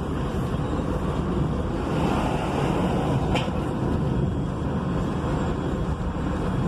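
Road traffic and the vehicle's own engine and tyre rumble, heard through an open window while driving: a steady, dense rumble with a single brief click about three and a half seconds in.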